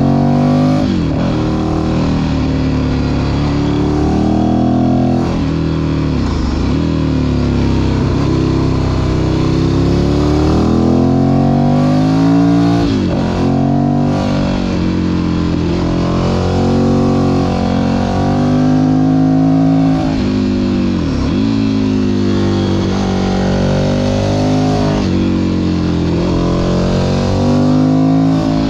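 Ducati Monster 1100 EVO's air-cooled L-twin engine pulling the bike along. The pitch rises and falls with the throttle, and the revs drop sharply several times at gear changes or when the throttle is closed.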